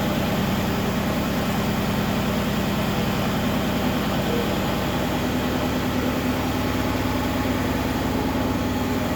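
Mercedes-AMG GT R's twin-turbo V8 idling steadily while it warms up just after start-up.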